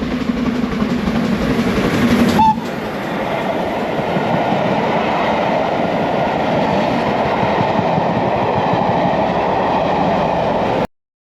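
Loud train noise: a steady low running note for about two and a half seconds, then an abrupt change to a train passing with rushing wheel-on-rail noise, which cuts off suddenly near the end.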